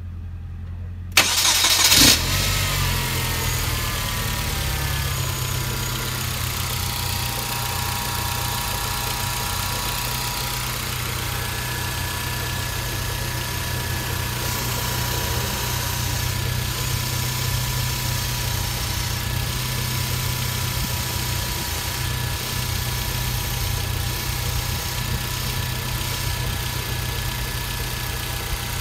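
2010 Hyundai Genesis Coupe 2.0T's turbocharged four-cylinder engine starting about a second in, then idling with a steady whine from the failing bearing of an idler pulley on the accessory belt drive. The whine drops in pitch over the first few seconds as the start-up idle settles, then holds steady.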